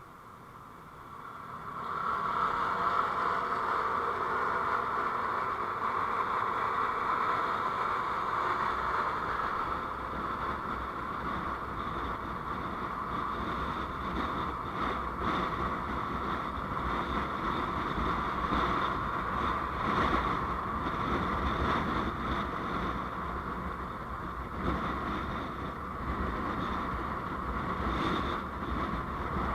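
Steady driving noise of a moving road vehicle, engine and wind noise, which swells about two seconds in and then holds.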